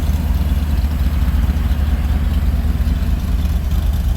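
A truck engine idling steadily close by, a low, even rumble.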